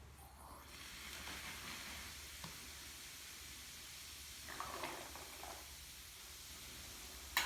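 Baking soda and vinegar reaction fizzing in a homemade volcano: a faint, steady hiss of foaming bubbles that starts about half a second in. A sharp click near the end.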